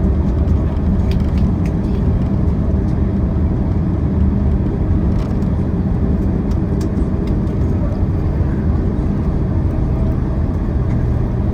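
Cabin noise of a Boeing 767-400ER rolling along the ground just after landing: a steady low rumble from the engines and wheels, with a few faint rattles in the cabin.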